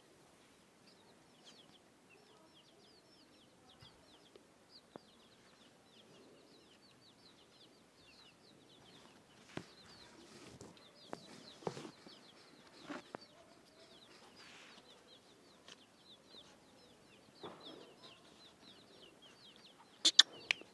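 Birds chirping continuously in the background, a steady stream of quick, high, falling chirps. A few scattered sharp taps and knocks come through, the loudest two near the end.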